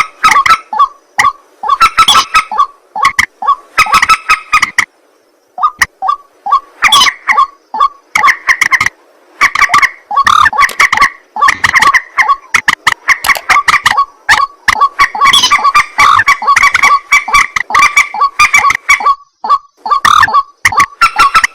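Rails calling: a loud, fast, unbroken run of harsh, honking notes repeated over and over, with a short break about five seconds in. These are the calls of white-breasted waterhens and moorhens.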